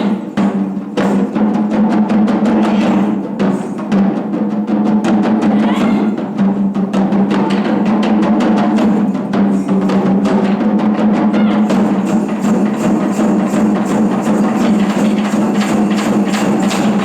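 Japanese taiko drum ensemble playing a fast, dense run of strokes over a steady low ringing, with sharp wooden clicks among the drum hits; the playing stops right at the end.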